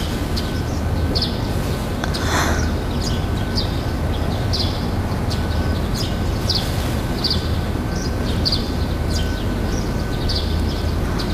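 Birds chirping with short, high, repeated calls over a steady low background hum.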